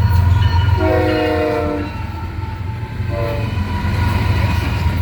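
Florida East Coast Railway GE ES44C4 diesel locomotive 823 passing close with its train, its multi-note air horn sounding a long blast about a second in and a short one about three seconds in, over the steady low rumble of the engine.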